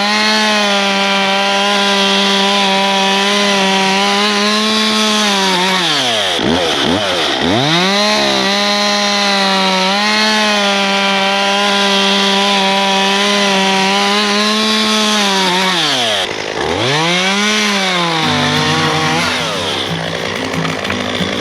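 Two-stroke chainsaw running at high revs while cutting up old wooden lounge furniture, its pitch dropping sharply and climbing back twice. Background music comes in near the end.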